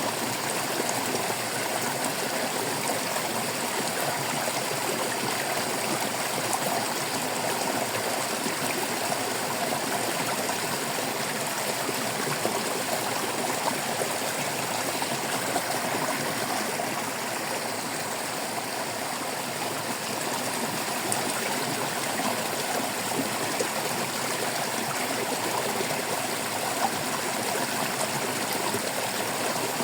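Shallow stream water babbling and trickling steadily over rocks, with small splashes scattered through.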